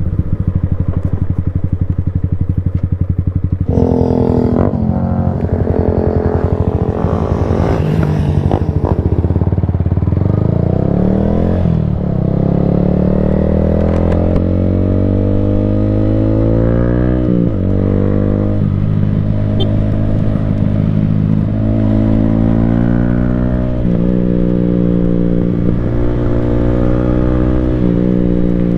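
Yamaha Sniper 155R single-cylinder engine through an Akrapovic full exhaust system, under way. The engine pitch climbs and drops several times, with a louder surge about four seconds in and a sharp drop about seventeen seconds in.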